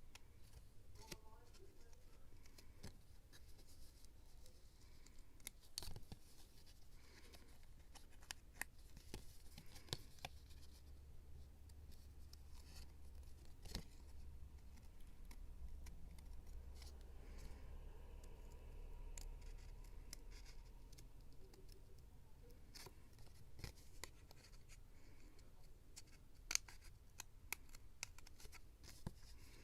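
Faint scissors snipping through paper, with many small scattered clicks and soft paper rustling.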